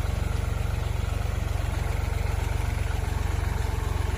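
Tractor engine running steadily at a constant speed, its low firing pulses even throughout.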